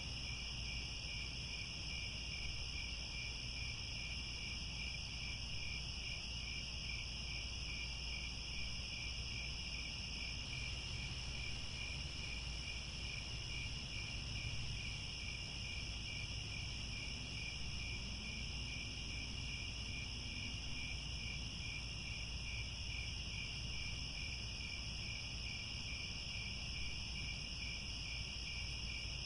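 Crickets chirping in a steady chorus: a continuous high trill layered with an evenly pulsing chirp, over a faint low rumble.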